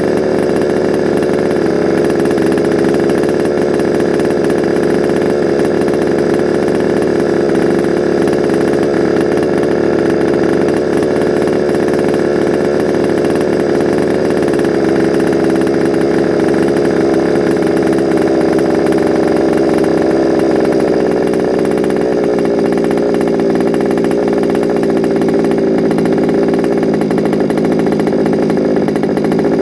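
Two-stroke petrol engine of a large-scale FG Sportsline BMW 320si RC car running steadily, its note changing slightly about two-thirds of the way through.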